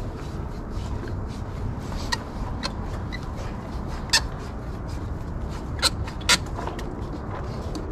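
Fuel-injected car engine idling with a steady low rumble, which the mechanics suspect is drawing air through a leak near the throttle body and running rich. A few sharp clicks of tools work on the engine.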